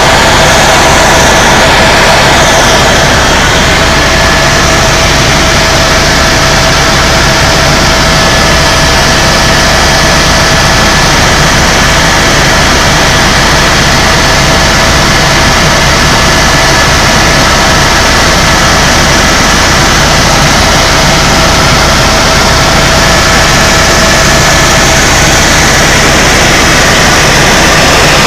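Helicopter in flight heard from inside the cabin: steady engine and rotor noise with a constant high whine.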